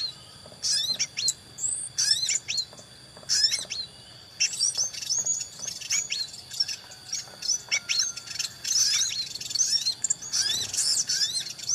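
Small birds chirping: quick, high, arched chirp notes in bursts with short pauses between them, coming thicker and more continuous in the second half.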